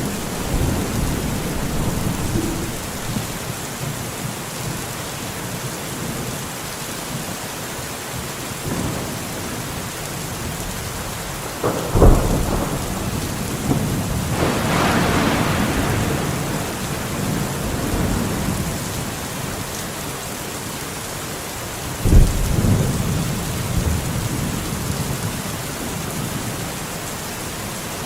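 Steady rain falling, with thunder: a sharp clap with rumbling about twelve seconds in, a rolling swell a few seconds later, and another clap with rumble about twenty-two seconds in.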